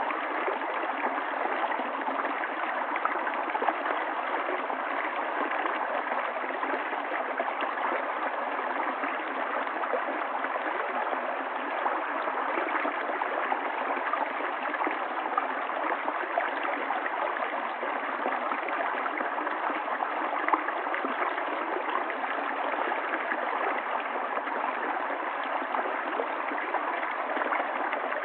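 River water flowing and gurgling over stones in a steady, unbroken rush.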